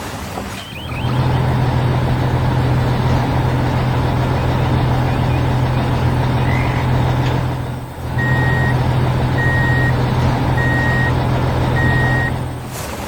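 A heavy construction vehicle's engine running steadily, with a reversing alarm beeping four times, about one beep a second, in the last few seconds.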